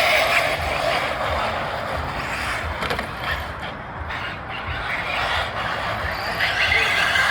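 Arrma Granite Grom's Mega 380 brushed electric motor and gears whining as the 1/18-scale RC monster truck drives, easing off in the middle and picking up again near the end.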